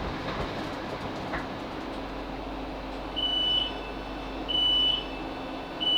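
Steady rumble inside a Class 458 electric train's carriage, then, from about halfway through, three identical high beeps evenly spaced about 1.3 s apart: the door warning as the train stands at the station.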